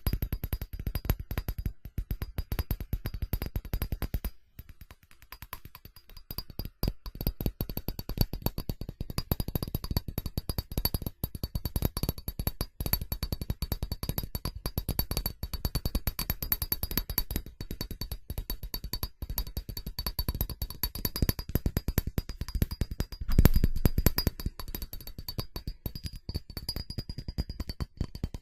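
Fast, aggressive tapping on a ceramic object: a dense stream of quick clicks, easing off for a moment about four seconds in and peaking in a short louder flurry near the end.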